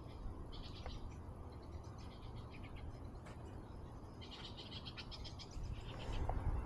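Short, high, rapidly pulsed trills from small wild animals, repeating several times, over a steady low rumble.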